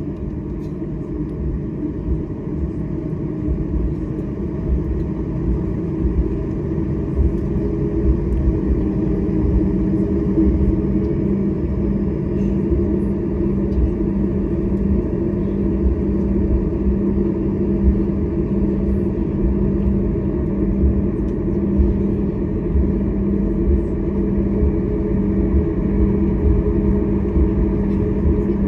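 Cabin noise of a Boeing 737 MAX 8: a steady rumble from its CFM LEAP-1B engines and the airframe, with a low hum, growing gradually louder.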